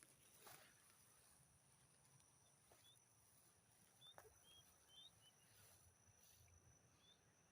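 Near silence outdoors: a faint steady high-pitched insect drone, with a few short high chirps scattered through it.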